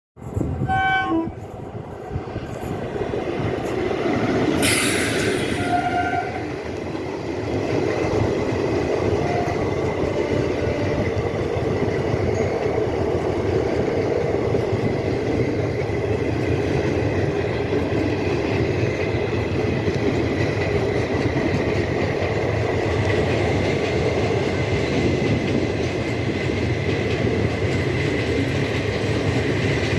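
Indian passenger train sounding a short horn blast at the start, then the steady rumble of carriages running on the track, with a brief hiss about five seconds in.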